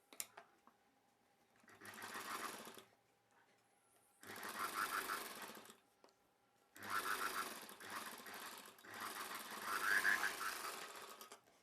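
Sewing machine stitching a seam in four short runs with brief stops between them, with a single click just after the start.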